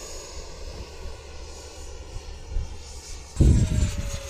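RC model jet, an electric ducted fan F-16, flying with its retracts just raised, its whine slowly dropping in pitch as it passes, under a steady wind rumble on the microphone. A loud gust hits the microphone about three seconds in.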